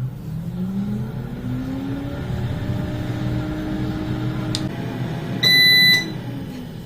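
Havells air fryer's fan motor starting up, its hum rising in pitch over the first two seconds and then running steadily as the fryer preheats. There is a click a little past halfway, and a loud electronic beep of about half a second near the end.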